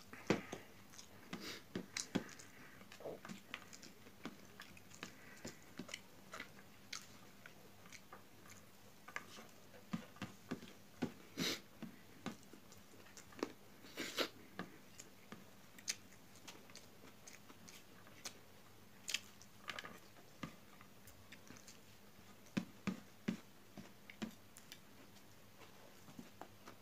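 Close-mic eating sounds: a person chewing and biting mouthfuls of rice with vegetables eaten by hand, giving irregular wet mouth clicks and small crunches.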